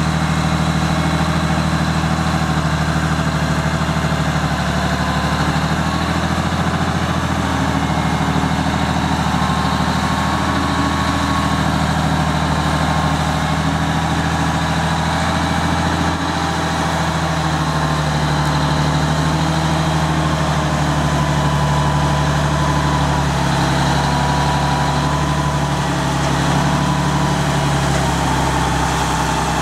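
Heavy engine running steadily at a constant speed, with a low hum and a fainter wavering whine above it. It is most likely the machinery hauling a sailing boat out of the water.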